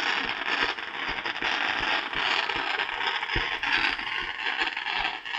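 Fireworks going off: a continuous dense crackle with scattered sharper pops mixed in.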